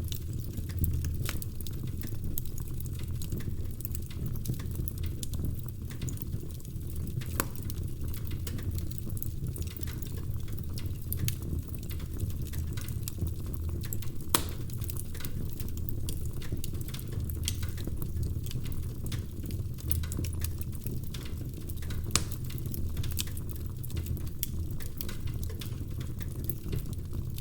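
Wood fire burning in a fireplace: a steady low rumble of the flames under irregular crackles and snaps from the logs, with a few sharper pops standing out.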